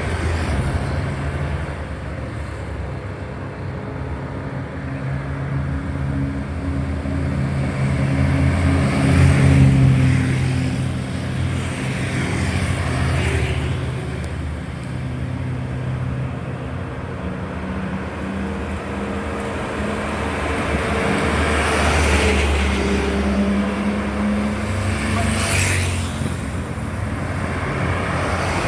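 Road traffic: motor vehicles driving past close by, with the low drone of a heavy engine under it, loudest about nine seconds in. Several vehicles go by one after another.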